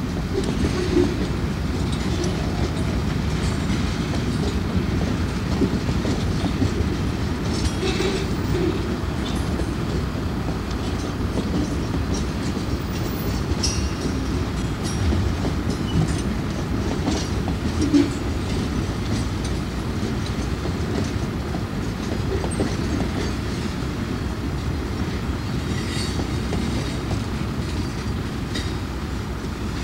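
Freight train boxcars rolling past: a steady low rumble of steel wheels on rail, with scattered clanks and clicks, the sharpest about eighteen seconds in.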